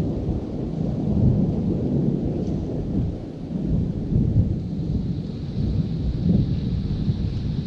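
Thunder rumbling continuously in uneven rolls, with no single sharp crack.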